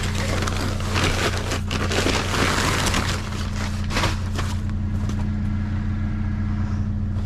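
Trash being rummaged through: irregular rustling and clattering of plastic and paper items, over the steady low hum of an idling vehicle engine.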